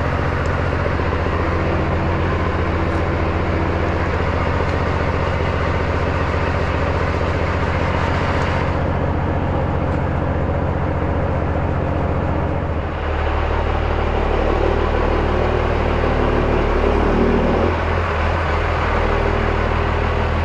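Diesel engine of a Kenworth C500 heavy truck running steadily under way, heard from inside the cab with road noise; the engine note changes about thirteen seconds in.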